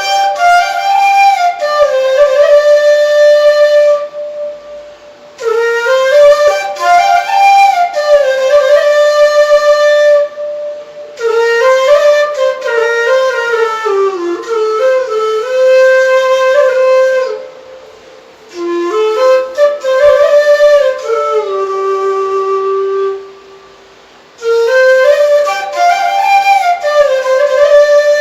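Solo flute playing a slow melody in phrases of about five seconds, each followed by a short pause.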